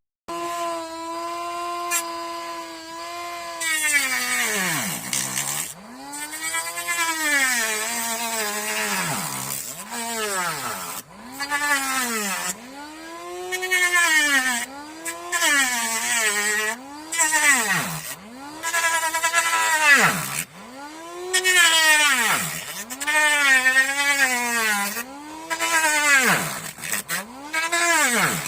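Small DC motor of a homemade cardboard grinder spinning a small grinding disc with a high whine. After about three seconds of steady running, its pitch repeatedly sags and climbs back, roughly every one and a half to two seconds, under a steady hiss.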